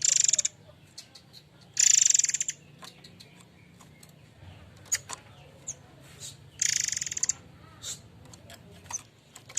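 Murai air mancur songbird calling: three short, rapid, high trills of about half a second each, with faint short chirps and ticks between them.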